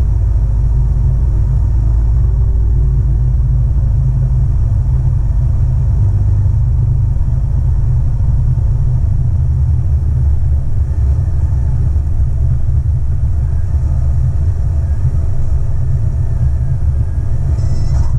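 Cessna 172's engine and propeller droning steadily in the cockpit during the final approach and landing. The deepest part of the drone drops off about halfway through.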